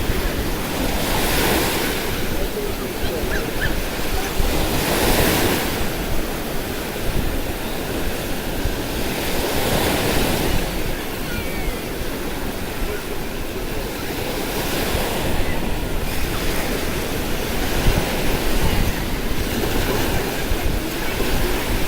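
Sea waves breaking on the shore, each wave's wash swelling up about every four to five seconds, with wind buffeting the microphone underneath.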